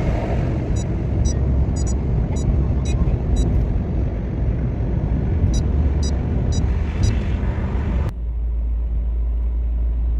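Steady road and engine rumble of a moving car heard from inside, with faint high ticks now and then. About eight seconds in, the hiss cuts off abruptly, leaving only a low hum.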